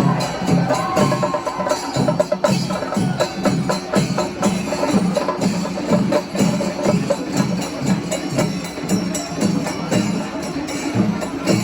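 Kerala temple-festival percussion ensemble: drums and small hand cymbals playing a fast, unbroken rhythm.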